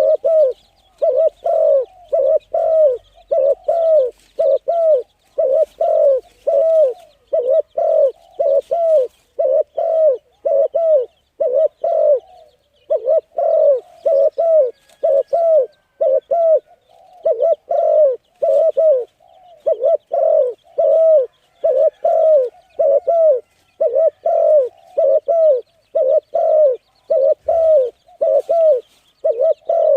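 A bird calling over and over in short, loud, arched notes, about two a second, with a brief pause about twelve seconds in.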